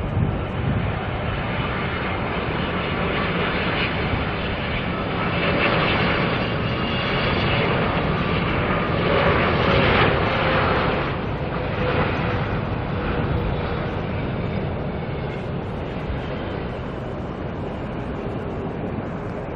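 Airliner passing close by, its engine noise building to a peak about halfway through and then slowly fading, with a faint tone dropping slightly in pitch as it goes by.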